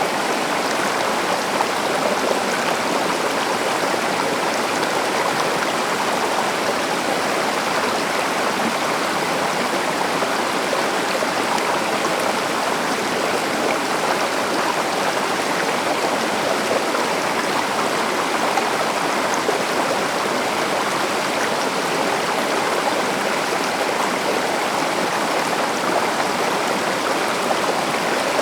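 Forest river or stream flowing steadily, an even rushing of water with no distinct splashes or breaks.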